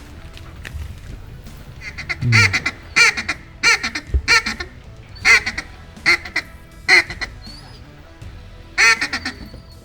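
A series of loud duck quacks in short separate calls, starting about two seconds in and repeating every second or so.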